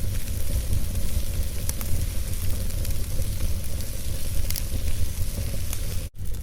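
Logs burning in a fireplace: a steady low rumble and hiss, with a few sharp crackles and pops scattered through it. The sound cuts out for an instant near the end.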